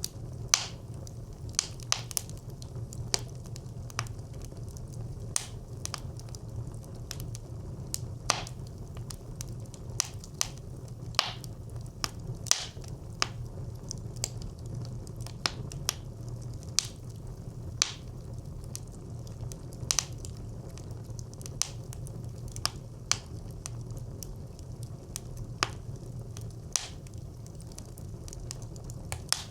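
Wood fire burning in a brick clay stove: sharp, irregular crackles and pops, about one or two a second, over a steady low rumble of the flames.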